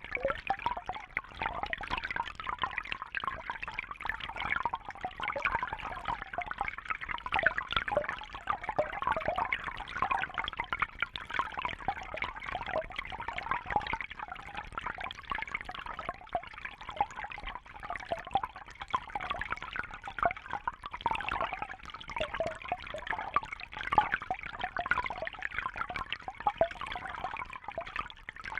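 Water trickling and bubbling steadily, a constant patter of small splashes with no pauses.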